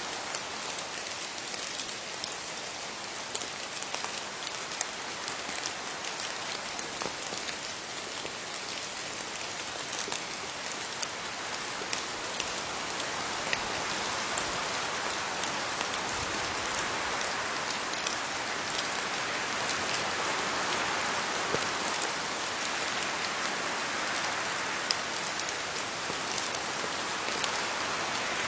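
Steady rain falling on leaves: a dense hiss with many small sharp drop ticks, growing somewhat heavier about halfway through.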